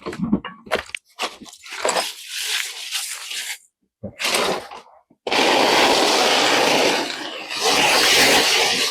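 Foley tyre-skid effect made by scraping a prop: a run of short, uneven scrapes, then two long, loud screeching drags near the end.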